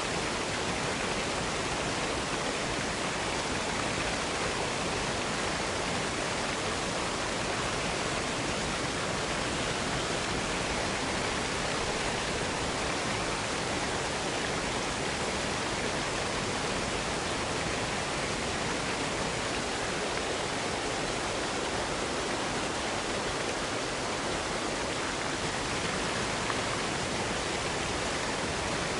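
Waterfall in a small box canyon: a steady, unbroken rush of falling water.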